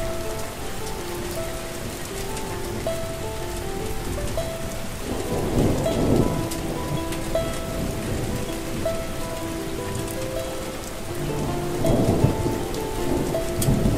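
Steady rain hiss with a roll of thunder about five seconds in and another near the end, under a slow, soft melody.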